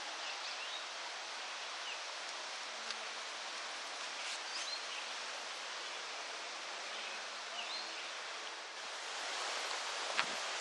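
Steady outdoor campground ambience: an even hiss, with a few faint short chirps now and then and a single sharp click near the end.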